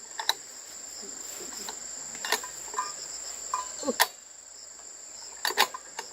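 Steady high-pitched insect drone, typical of crickets, with about four sharp knocks spread through it.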